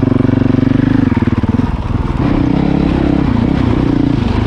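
Dirt bike engine running under throttle at steady revs. About two seconds in the revs drop, then rise and fall unevenly as the rider works the throttle.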